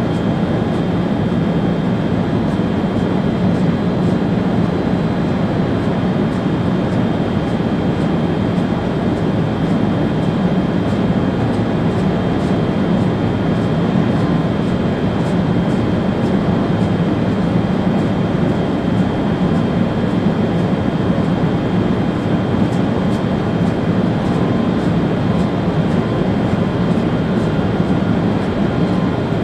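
Steady running noise in the driver's cab of an ÖBB Railjet train travelling at speed: a continuous rumble with a thin, steady high tone above it.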